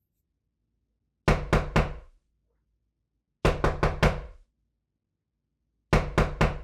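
Knocking on a door: three rounds of quick raps, three or four knocks to a round, about two seconds apart.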